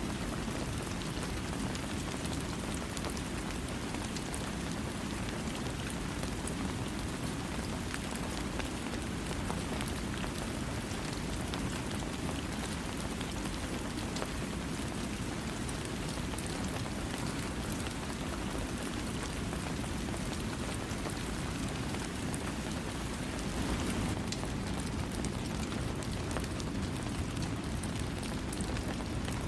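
Steady rain falling, a dense patter of drops over a low, even rush, with no thunder.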